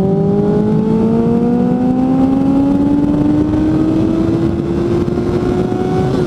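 Suzuki GSF 600 Bandit's inline-four engine, fitted with an aftermarket exhaust, pulling steadily under load, its pitch rising slowly and evenly, then easing slightly near the end.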